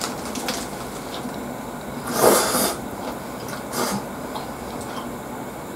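Close-up eating sounds from a lettuce-wrapped burger being chewed, with a short louder crunch about two seconds in and a smaller one near four seconds.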